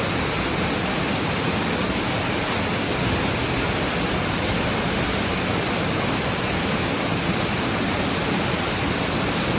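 Waterfall rushing in a steady, even roar of falling water, unchanging throughout.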